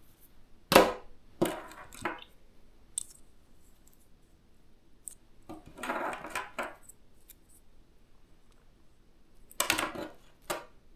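Clicks and knocks of hard plastic and metal PC parts being handled and fitted while the power supply and its cables go into the case. There is a sharp knock about a second in, two more soon after, a run of rattling clicks around the middle and a few more near the end.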